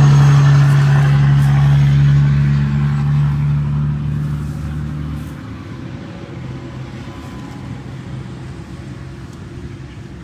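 A large vehicle's engine running close by at a steady pitch, loud at first and fading away about five seconds in, leaving steady highway traffic noise.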